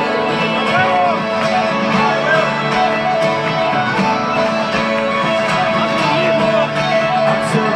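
Live rock band playing an instrumental passage led by guitar, with no lead vocal, heard through a stadium audience's recording.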